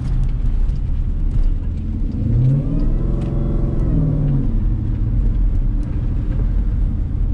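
Jeep Grand Cherokee Trackhawk's supercharged 6.2-litre V8 running over a steady low rumble, revving up about two seconds in and easing back down a couple of seconds later as the SUV accelerates.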